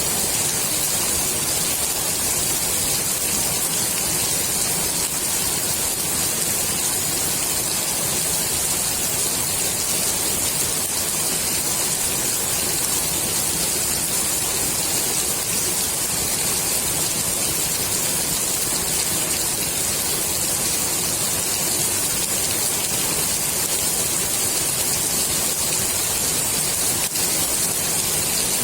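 Steady rain falling on the water of a swimming pool, an even hiss that is strongest in the high range.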